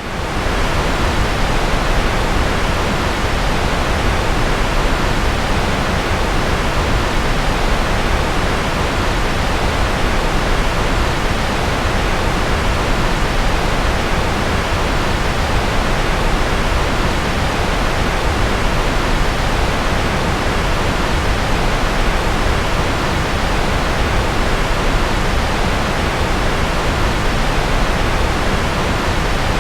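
Steady rushing noise, even across the range and weighted toward the low end like pink noise, with no tones or rhythm; it fades in at the very start and then holds level.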